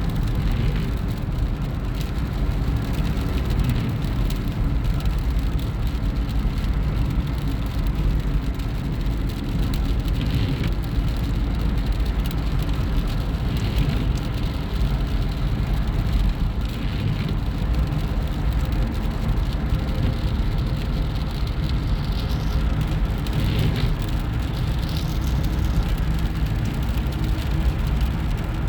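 Steady road and engine noise of a car driving, a constant low rumble with a few brief soft swooshes along the way.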